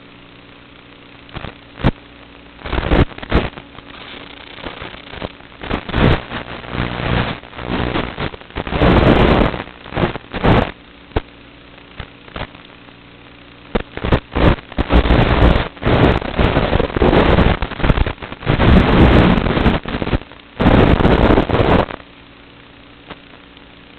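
5-inch FPV quadcopter with Kingkong 5040 three-blade propellers: a low steady motor hum at low throttle, broken by repeated loud throttle punchouts lasting from a moment to about two seconds each, coming thick and fast in the second half.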